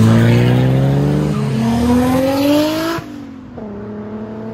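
A car engine revving hard as the car accelerates away, its pitch climbing, dropping once at a gear change about a second and a half in, then climbing again. The loud part cuts off suddenly about three seconds in, and a quieter engine follows with its pitch falling.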